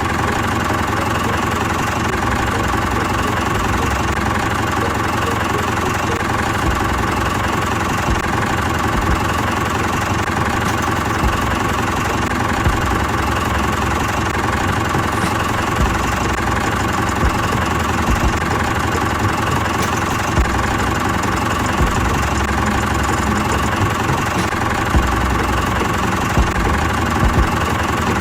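Small engine of a DIY miniature tractor running steadily at an even speed, with faint knocks now and then.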